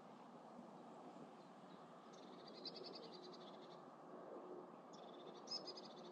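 A songbird in the reeds singing two short, faint phrases of rapid, high repeated notes, the first about two seconds in and the second near the end, over a faint steady background hiss.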